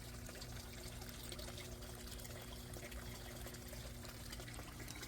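Water trickling and pouring steadily in a backyard aquaponics system, with a steady low hum underneath.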